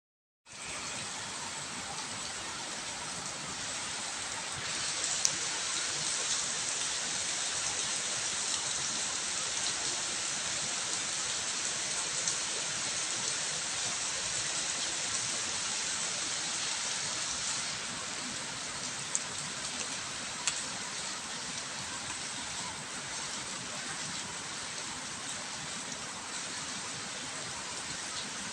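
Heavy rain falling in a steady hiss, a little heavier for the first half, with a few sharp drip ticks.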